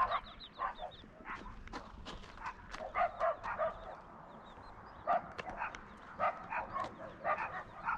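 Hen clucking in short, repeated calls, with faint high peeping of chicks.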